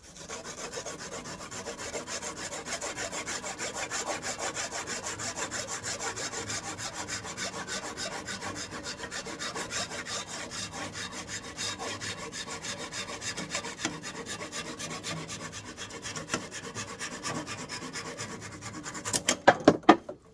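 Continuous rasping and scraping of a tool cutting into birch wood, made of many fine rapid strokes, with a few sharp knocks near the end.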